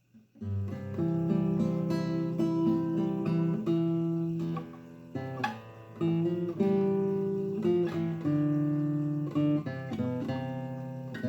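Acoustic guitar playing the chords of a song's introduction, starting about half a second in, as someone practises the song.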